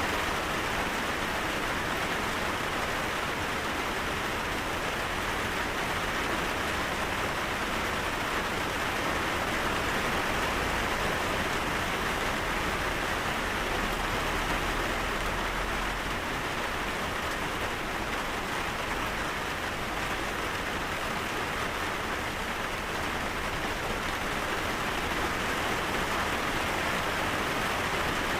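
Steady rainfall, an even hiss of rain falling on a surface with no distinct drops or breaks.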